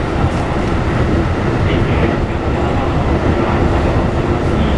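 Running sound inside a Keikyu New 1000 series electric train car fitted with a Toyo IGBT VVVF inverter, travelling at steady speed: a constant rumble of wheels on the rails with a faint steady hum.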